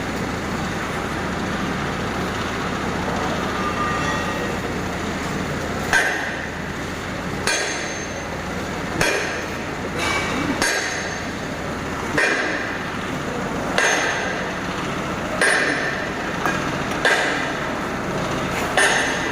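A hammer striking metal with a ringing clang, about ten blows at roughly one every second and a half, starting about six seconds in, over a steady machinery hum.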